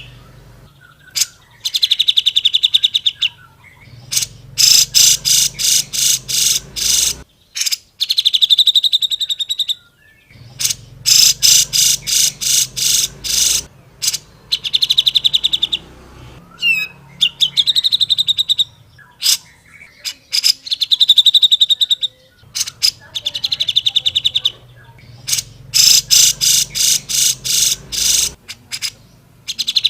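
Cucak jenggot (grey-cheeked bulbul) singing energetically: loud, fast rattling trill phrases, each about one to two seconds long, repeated over and over with short pauses between them.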